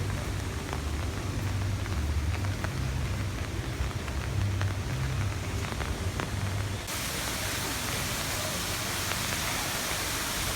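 Rain falling steadily, a hiss with a few sharp drip-like ticks over a low rumble. About seven seconds in, the sound changes abruptly to a brighter, even hiss.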